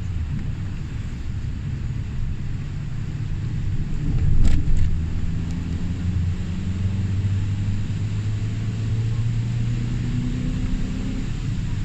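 Low, steady rumble of a motor vehicle's engine running, with a brief louder swell about four and a half seconds in.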